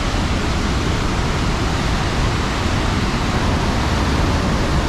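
The Rhine Falls, a large waterfall, heard close up: a loud, steady rush of falling water.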